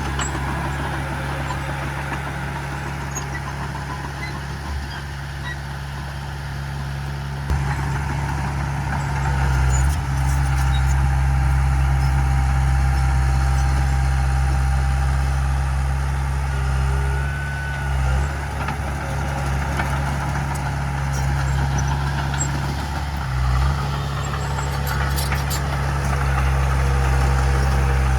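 Diesel engine of heavy earthmoving machinery running steadily with a deep low hum, growing louder about a quarter of the way in, with a couple of short dips later.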